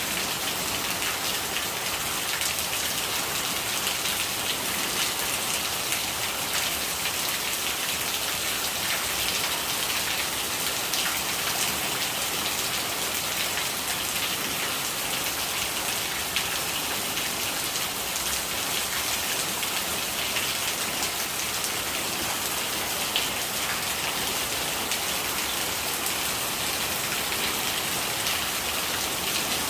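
Steady rain with gurgling rainwater: a dense, even patter of drops with no change in strength.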